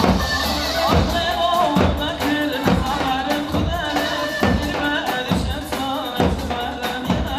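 Live halay dance music from a wedding band: a keyboard melody over a steady, heavy drum beat, about one beat a second, with no singing.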